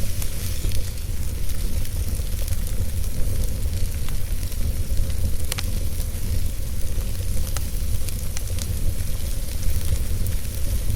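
Wood fire burning in a fireplace: a steady low rumble and hiss with scattered sharp crackles, several in the second half.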